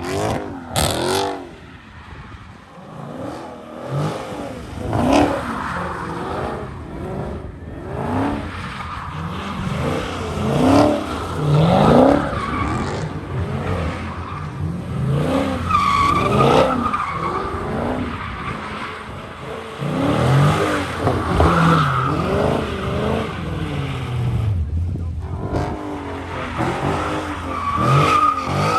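Car engines revving up and down again and again with tires squealing, the sound of cars doing burnouts at a car meet. Long tire screeches come in several times.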